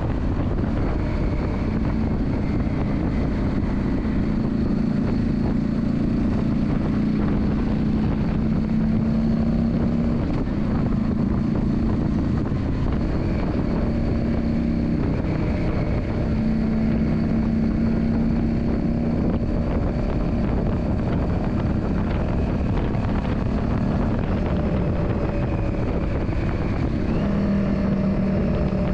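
Yamaha Drag Star 400's air-cooled V-twin engine running continuously at fairly steady revs, its pitch rising and falling slightly every few seconds.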